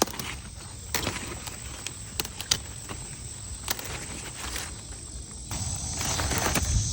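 Kale leaves being snapped off the plant and handled, a scatter of sharp snaps and leaf rustling that grows louder near the end.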